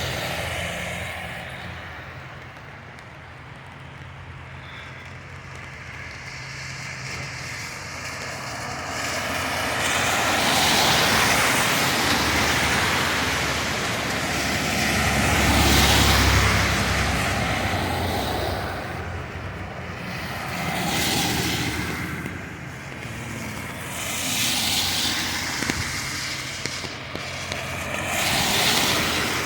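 Traffic passing on a wet road: several vehicles go by one after another, their tyre hiss swelling and fading, one with a deeper rumble about halfway through.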